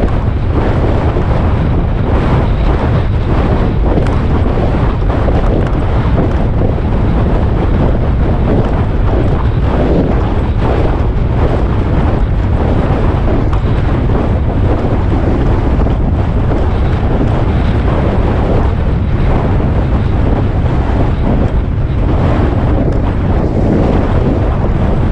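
Heavy wind noise on the microphone of a moving motorcycle: a loud, steady rumble that does not let up.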